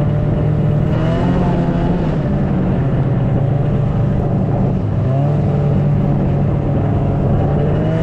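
Snowmobile engine running loud and steady while riding, its pitch shifting with the throttle about a second in and again about five seconds in.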